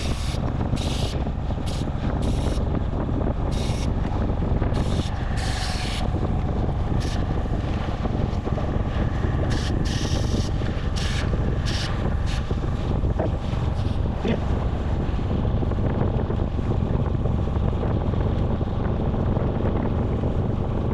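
Wind buffeting the microphone while riding: a steady low rumble with short hissing gusts, several in the first half.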